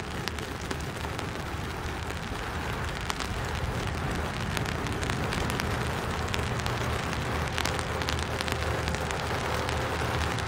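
Rain falling on a creek: a steady hiss of rain with many small sharp drop ticks, over a low rumble.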